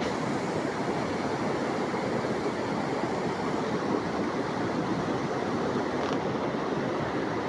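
A river in flood, swollen by heavy rains, rushing steadily: a continuous, even noise of fast-flowing water.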